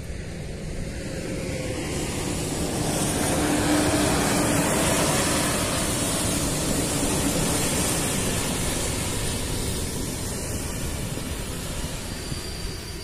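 A passenger train passing over a level crossing. Its rumble swells to a peak about four seconds in, holds, then slowly fades as it moves away.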